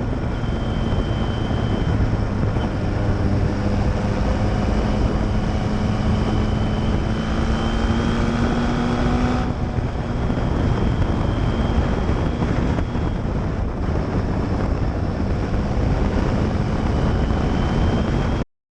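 Custom Kawasaki Z1000 chopper's inline-four engine running through a straight-pipe quad exhaust while riding, with wind buffeting the microphone. The engine note climbs slowly for about nine seconds, changes abruptly, then holds steady until it cuts off suddenly near the end.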